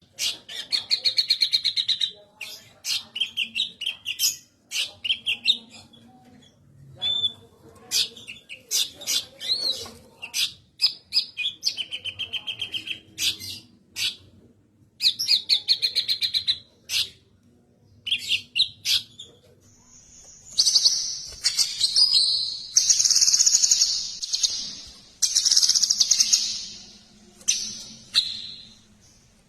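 Cucak kinoi songbird singing loud phrases of rapid trills, chips and whistles, broken by short pauses. From about twenty seconds in the phrases turn harsher and buzzier and are held longer.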